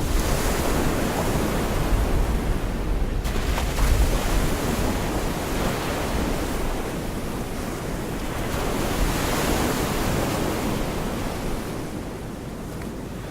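Gulf of Mexico surf washing onto a beach, the rush of breaking waves swelling and easing twice, with wind rumbling on the microphone.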